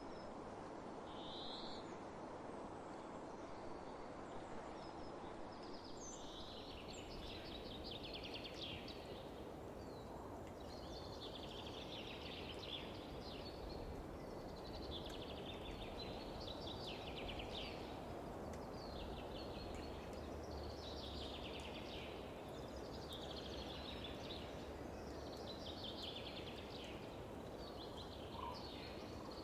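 Steady wind rustling across open fields, with a bird singing a short, rapid trilled phrase over and over, about once every two seconds, starting about six seconds in.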